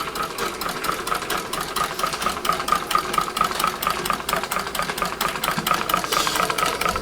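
Large hot air engine running steadily, its mechanism clicking in a rapid, even rhythm.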